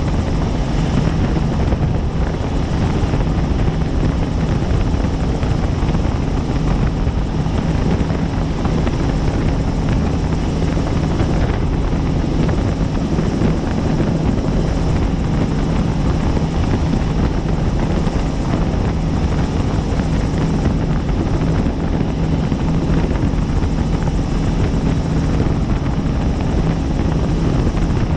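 Helicopter in flight, heard from on board: a steady drone of rotor and engine with a constant low hum, unchanging throughout.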